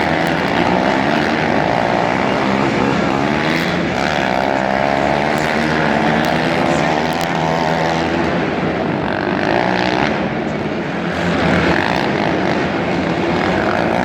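Monster truck's supercharged V8 engine running loud and revving, its pitch rising and falling over and over.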